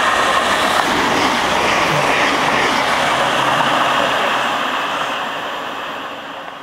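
Electric multiple-unit train running past along the platform: a loud, steady rushing of wheels on rail that fades as it moves away over the last couple of seconds.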